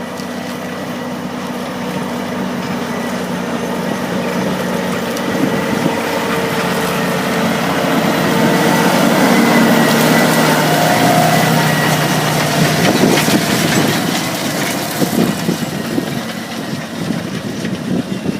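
Deutz-Fahr 7250 TTV tractor's six-cylinder diesel running steadily under ploughing load, growing louder to about halfway and then easing off as it passes. Irregular crackles and knocks come through in the second half.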